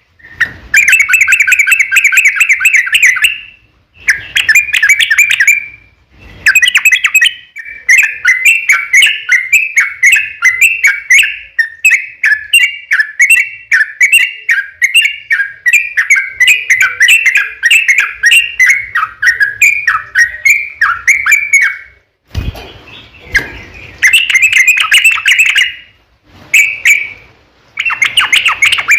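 Yellow-vented bulbul (trucukan) singing loudly: short bursts of dense, rapid chattering, then a long run of quick, separate chirping notes for about fourteen seconds, then more chattering bursts near the end.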